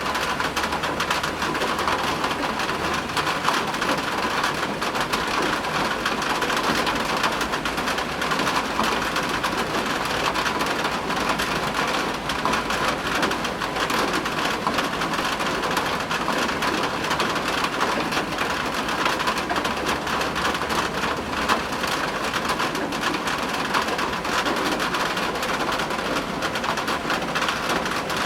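Steady rain falling in an even hiss, with a low rumble of thunder underneath at times.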